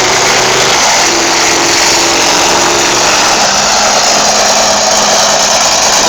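A 1500-horsepower monster truck's engine running loud and steady.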